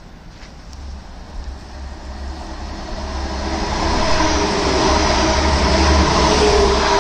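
Passenger train approaching on the line, its low rumble and wheel noise growing louder over about three seconds and then running loud and steady as it passes.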